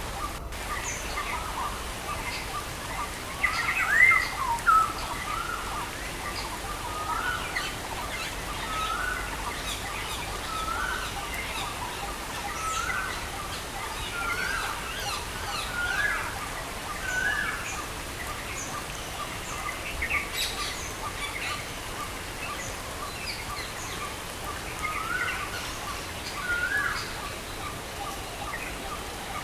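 Birds chirping over a steady hiss of rain. One bird repeats a short rising chirp about once a second through much of the time, and other birds call higher and fainter. There is a louder flurry of calls about four seconds in.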